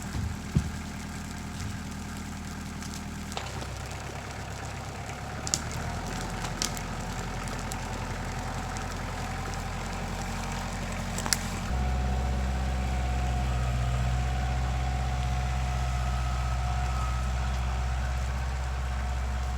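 An engine running steadily at low speed. Its note shifts about 3.5 s in and again about 12 s in, becoming louder after the second change, with a few sharp clicks along the way.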